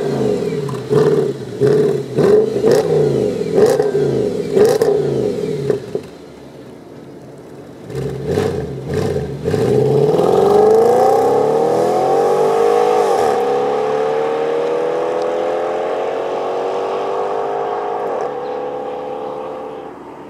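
Audi A6 4.2 FSI V8 with a custom exhaust: short throttle blips about once a second, then a brief idle and two more blips. It then accelerates hard, the pitch rising through the gears with shifts about three seconds in and again near the end, gradually fading.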